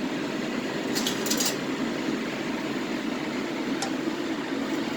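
Steady fan-like rushing noise, with a few brief high scraping sounds about a second in and a faint tick near four seconds.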